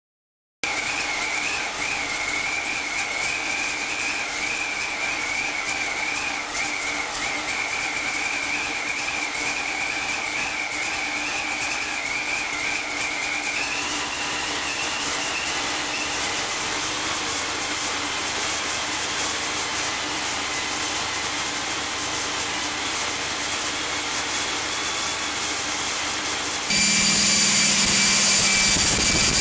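Small-block V8 running on an engine run stand, with a steady high whine over the engine noise. The whine steps up in pitch about halfway through, and the sound gets louder near the end.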